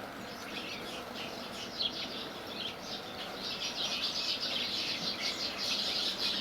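Sparrows chirping: a run of short, high chirps that becomes denser and louder about halfway through.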